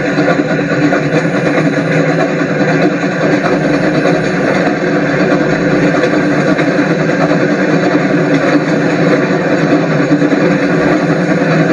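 An engine running steadily, an even mechanical drone that does not change.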